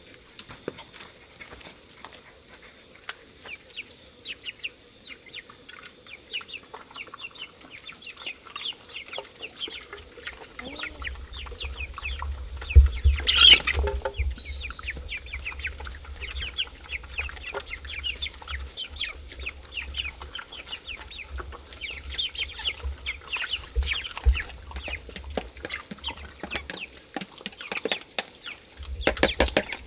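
Farm poultry calling: many short, quick chirps and peeps with clucking, and a louder burst of calls about 13 seconds in.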